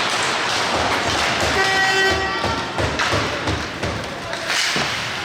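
An ice-rink horn sounds one short steady blast about a second and a half in, over rink noise with several dull thuds.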